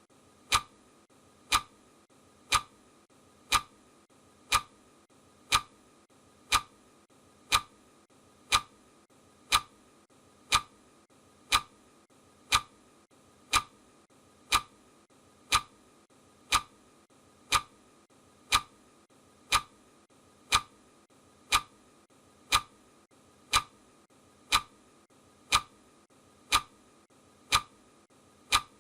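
A clock ticking steadily: one sharp tick about every second, with a faint steady hiss between the ticks.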